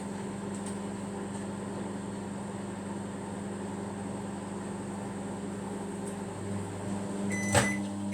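Microwave oven running with a steady hum while it cooks a mug cake. Near the end a beep sounds with a sharp click as the one-minute cycle finishes.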